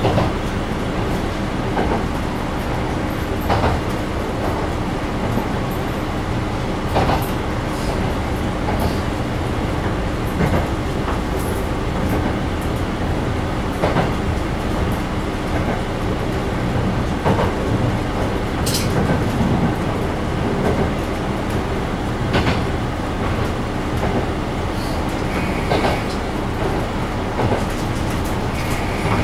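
Diesel railcar running at speed, heard from inside the car: a steady engine and running drone, with wheels clicking over rail joints every second or two.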